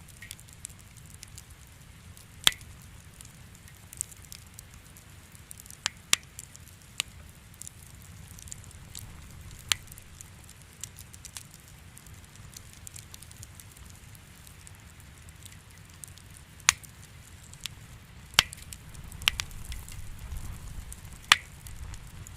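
Wood fire in a fireplace crackling: sharp pops at irregular intervals over a steady low rumble of the flames.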